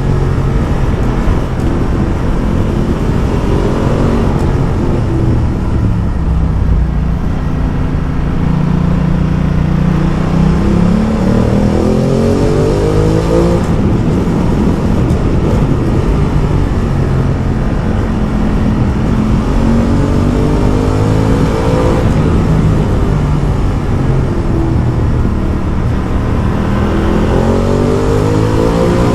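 Ducati Multistrada motorcycle engine pulling hard under acceleration over strong wind noise. Its pitch climbs and drops sharply three times as it shifts up through the gears.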